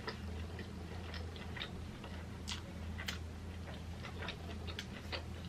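A person chewing a mouthful of burger with the mouth closed: scattered soft wet clicks and smacks at an irregular pace, over a steady low hum.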